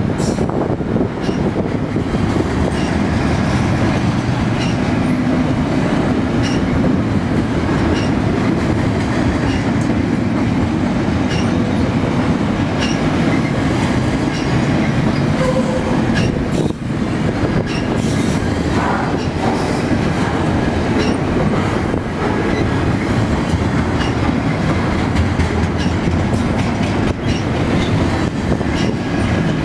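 BNSF double-stack intermodal train rolling past at close range: a steady, loud rumble of steel wheels on rail, with faint regular clicks as the wheels pass over the track.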